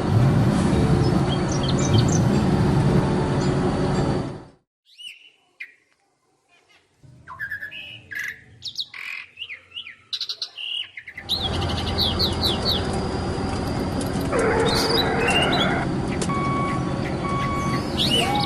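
Birds chirping and calling, over a dense steady noise that cuts off about four and a half seconds in and returns about eleven seconds in; in between, only the bird calls are heard.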